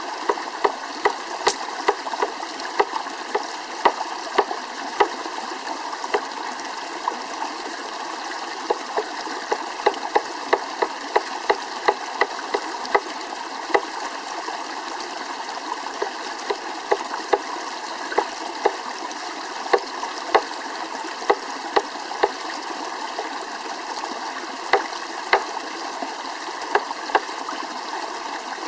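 Wood campfire crackling, with sharp, irregular pops about once or twice a second over a steady rushing hiss.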